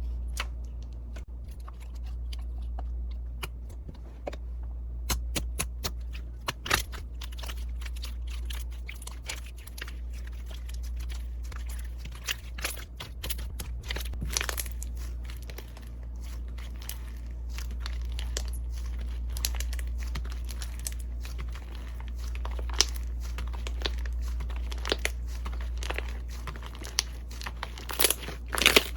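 Slime being squeezed and poked by hand, giving irregular crackles, pops and small clicks that grow dense after the first few seconds, with a sharp flurry near the end. A steady low hum runs underneath.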